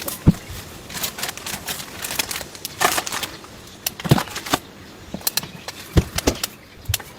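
Irregular clicks and taps, with a few dull knocks spread through.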